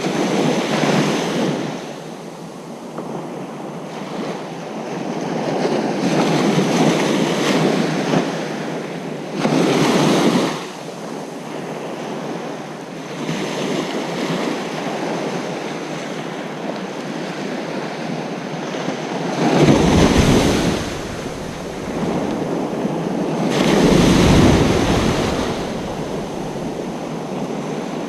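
Ocean surf breaking on a beach, the wash swelling and easing in repeated surges, about five louder breakers in all. The last two come with a deeper rumble.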